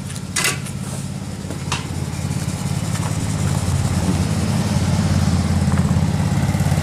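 Small garden tractor engine running at a steady idle, growing gradually louder, with a couple of short sharp knocks in the first two seconds.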